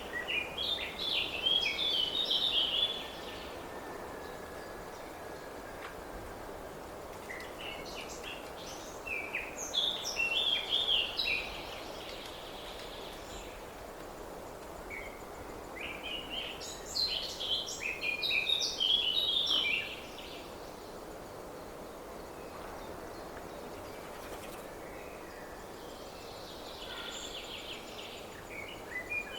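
A songbird singing three short, rapid song phrases, each about three seconds long and repeated roughly every eight seconds, over a steady background hiss.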